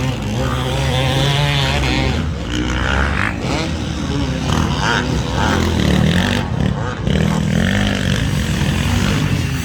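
Motocross bike engine running at speed, its pitch rising and falling as the throttle is opened and closed.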